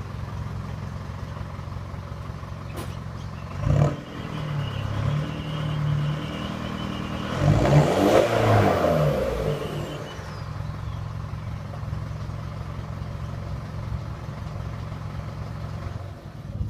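Mitsubishi MN Triton's 2.5-litre four-cylinder diesel running through a muffler-deleted exhaust: idling, with a short blip of the throttle about four seconds in and a longer rev a few seconds later whose pitch climbs and falls back to idle.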